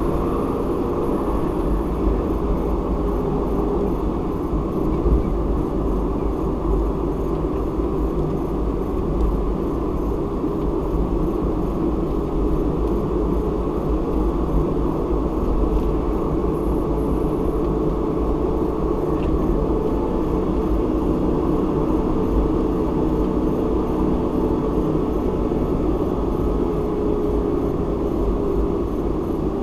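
A car driving at a steady speed: a constant low rumble of road and tyre noise with a faint engine drone underneath.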